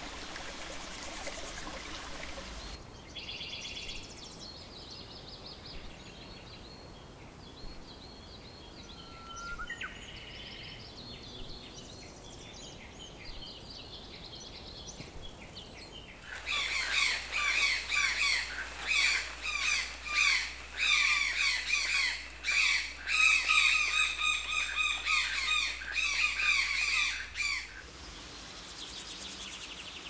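Running water for the first few seconds, then scattered bird calls. From about halfway, a dense chorus of loud, rapidly repeated bird calls lasts about ten seconds and stops abruptly.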